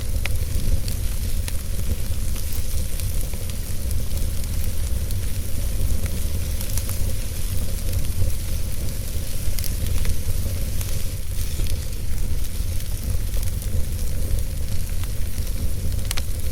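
Wood fire burning in a fireplace: a steady hiss over a low, even undertone, with frequent small crackles and pops at irregular moments.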